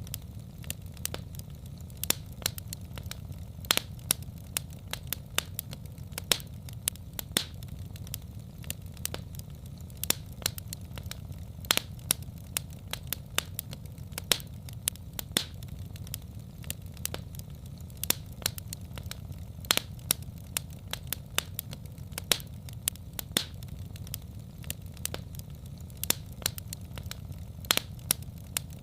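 Wood fire in a fireplace crackling: frequent sharp, irregular pops over a steady low rumble.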